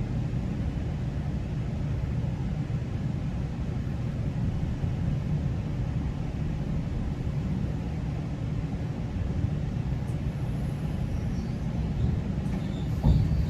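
Steady low rumble of a GO Transit commuter train heard from inside the coach. Faint high squeals creep in over the last few seconds, and a single thump comes near the end.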